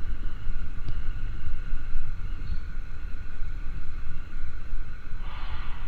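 A 70 cc Zimco motorcycle on the move, heard as a heavy, gusting low rumble of wind buffeting the microphone over the bike's faint steady engine note. A brief hiss comes through a little after five seconds in.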